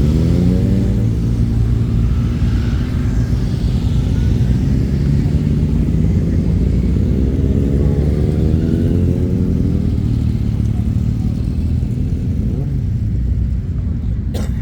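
Motorcycle engines running under a constant low rumble, with an engine note rising as a bike accelerates away at the start and again midway. A sharp click near the end.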